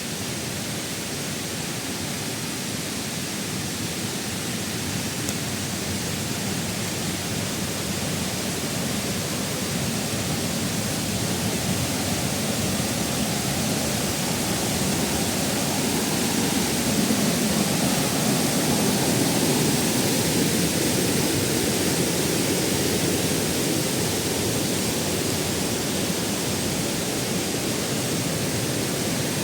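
Waterfall, a steady rush of falling water that grows a little louder around the middle.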